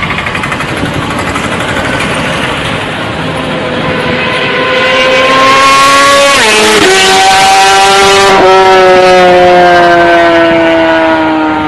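Kawasaki Ninja ZX-25R's 250 cc inline-four engine and exhaust running at high revs, its pitch rising as it gets louder over about six seconds. It then drops sharply in pitch twice, about six and eight seconds in, and stays loud with a slowly falling pitch.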